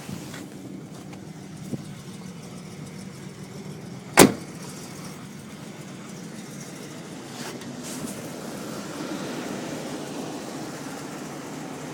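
1981 Buick Electra 225's carbureted 4.1-litre V6 running steadily at idle after a cold start. About four seconds in there is a single sharp bang, the loudest sound.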